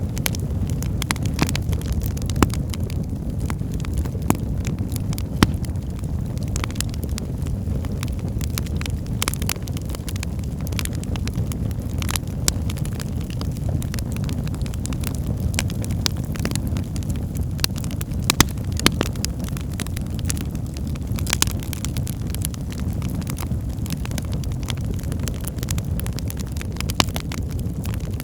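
Wood fire burning in a fireplace: a steady low rumble of flame with frequent sharp crackles and pops at irregular intervals.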